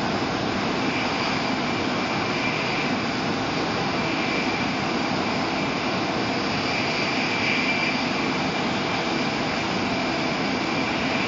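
Steady rushing cabin noise inside a Shinkansen bullet train running at high speed, with a faint high whine that swells slightly about two thirds of the way through.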